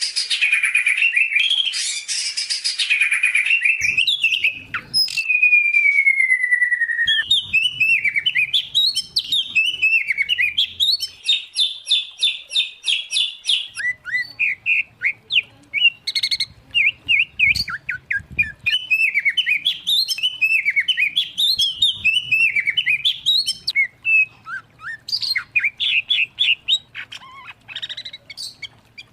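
White-rumped shama, oriental magpie-robin and greater green leafbird in full song together. Loud, varied singing of fast trills, a long falling whistle and quick rising and falling phrases.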